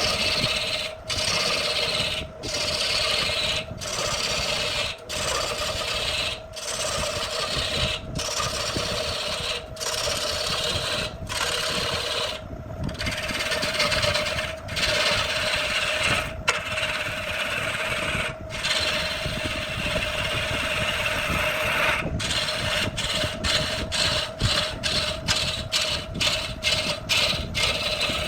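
Wood being rasped or sanded by hand in repeated back-and-forth strokes, roughly one stroke a second, running continuously for a few seconds past the middle and then quickening to about two strokes a second near the end, over a steady hum.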